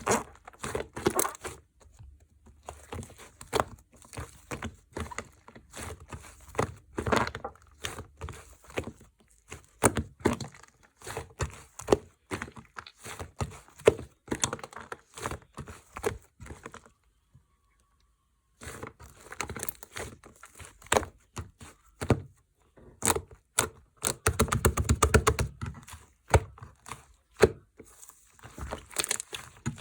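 Slime being squeezed, stretched and folded by hand, giving dense, irregular sticky pops and crackles as air pockets burst. There is a short pause a little past halfway, then the squishing resumes with a thicker run of pops near the end.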